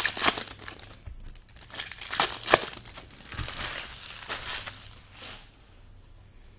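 Plastic wrapping on trading card packaging crinkling and tearing as it is pulled open, with a sharp snap about two and a half seconds in; it settles down near the end.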